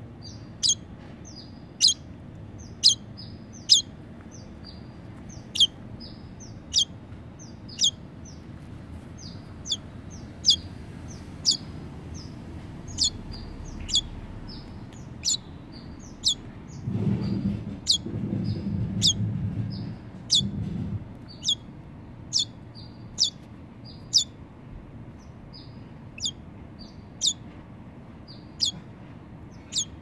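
Fledgling songbird chirping over and over, short high-pitched chirps about one a second, some in quick pairs. A low rumble joins for a few seconds just past the middle.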